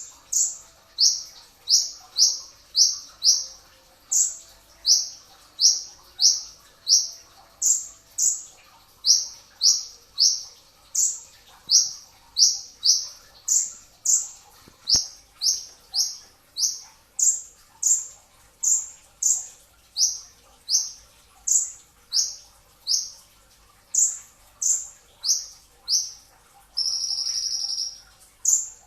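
A brown-breasted kolibri ninja (a sunbird) singing rapid, closely spaced sharp high chirps, about two a second. Near the end comes one longer, steady high buzzing note.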